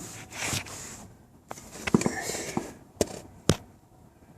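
Metal engine parts being handled: a few sharp clicks and knocks over rustling, the loudest about two and three and a half seconds in.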